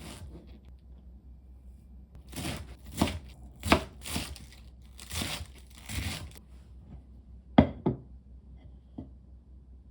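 Kitchen food preparation: about six short scraping, cutting strokes in a row, then two sharp knocks close together and a light tap.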